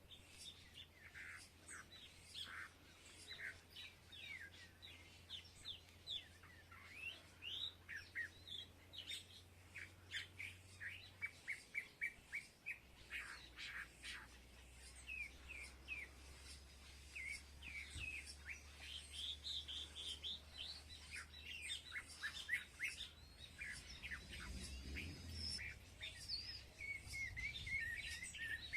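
Small birds chirping and twittering busily: many short chirps and quick up-and-down calls overlapping, with a quick run of rapid chirps about ten seconds in.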